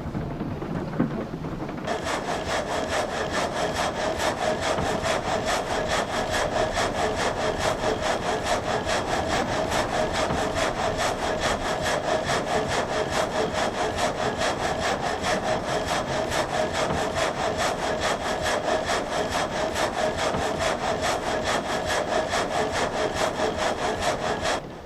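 Water-wheel-driven vertical frame saw sawing through timber, its blade strokes going in a fast, even rhythm that starts about two seconds in and stops just before the end.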